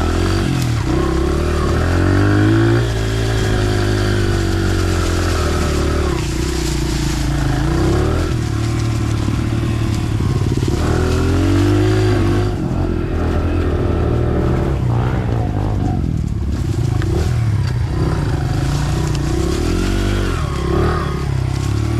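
Small dirt bike engine running continuously, its pitch rising and falling several times as the throttle opens and closes.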